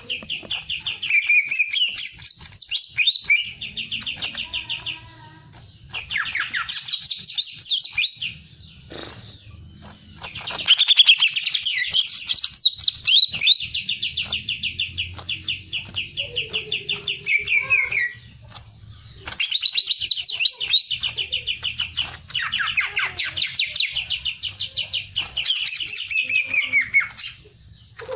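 A songbird singing long phrases of fast repeated trilled notes, high-pitched, with brief pauses between phrases.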